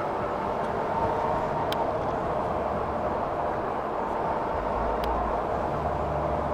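Steady rush of wind and road noise from riding an electric bike through city traffic, with a faint steady whine.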